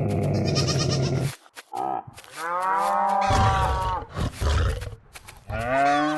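A large animal's long, pitched calls, three main calls with short gaps between them, the pitch sagging slightly as each call goes on.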